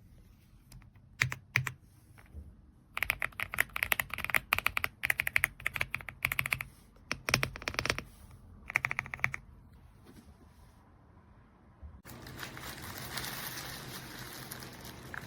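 Typing on an EPOMAKER x Aula F75 gasket-mount mechanical keyboard with Ice Vein switches. After a couple of single key clicks come several seconds of rapid key presses in quick runs, which stop about ten seconds in. Near the end a steady hiss starts abruptly.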